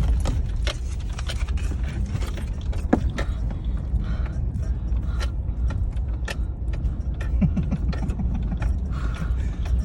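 Inside a four-wheel-drive vehicle on a rough, rocky dirt road: a steady low rumble of engine and road, with frequent knocks and rattles as the vehicle jolts over the ground.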